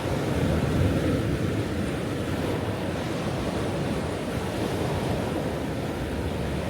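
Ocean waves washing on the shore, a steady rushing surf with a slight swell about a second in.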